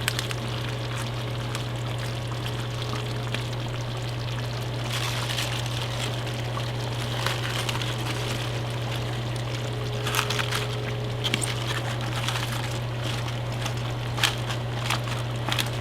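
Pot of kare-kare simmering, with liquid bubbling and scattered small pops and clicks over a steady low hum.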